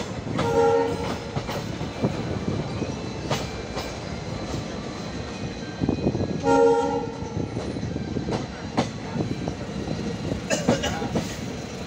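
Rumble and wheel clatter of a train pulling out of a station, heard from aboard. A train horn sounds two short blasts, one about half a second in and another about six and a half seconds in.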